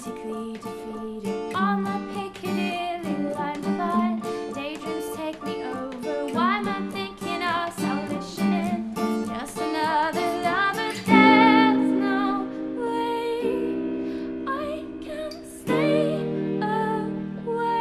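Live acoustic band music: plucked guitar with a singing voice that wavers in vibrato. About eleven seconds in, the music turns louder and fuller with long held chords.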